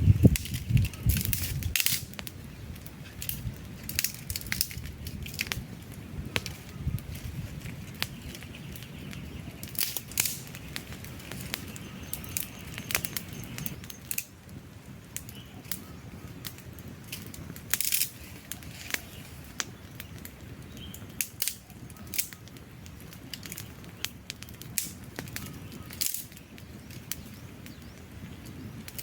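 Wood campfire burning, with irregular sharp crackles and pops from the logs over a soft hiss. A low rumble in the first couple of seconds cuts off suddenly.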